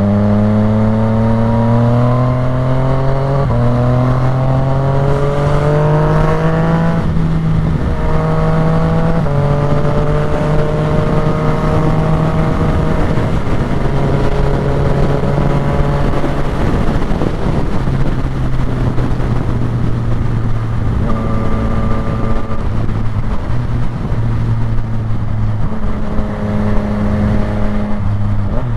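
Yamaha motorcycle engine pulling hard under acceleration, its pitch climbing for about seven seconds before dropping with upshifts, then running at steadier cruising revs, with constant wind rush.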